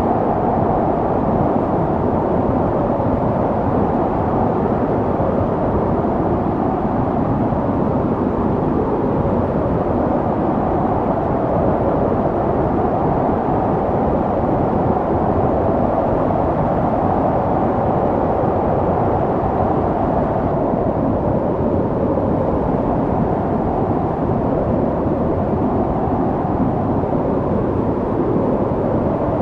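Snowstorm wind blowing steadily, a low, even rushing noise without a break.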